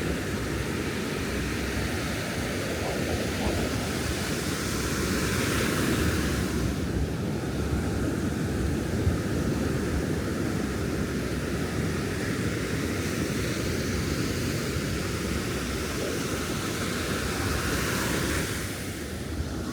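Ocean surf on a beach: a steady low rumble of waves, with the hiss of wash up the sand swelling about six seconds in and again near the end, and wind on the microphone.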